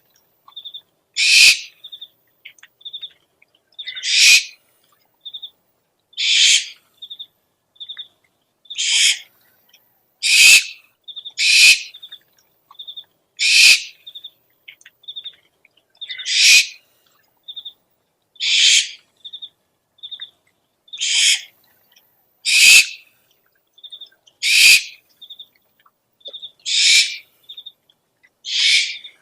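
Owl calls: a harsh, hissing screech about every two seconds. Between the screeches come short, high chirps in twos and threes.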